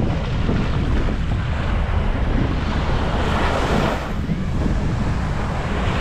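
Sea waves breaking and washing up a beach, with wind buffeting the microphone into a heavy low rumble. A wave surges in more loudly around three to four seconds in.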